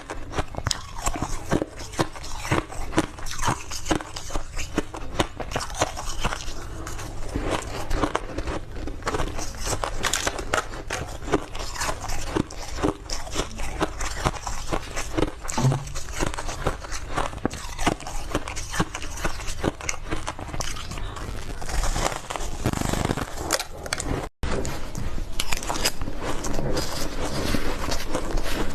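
Close-up chewing of big mouthfuls of refrozen powdery ice: a dense, continuous soft crunching and crackling, with a split-second gap about three-quarters of the way through.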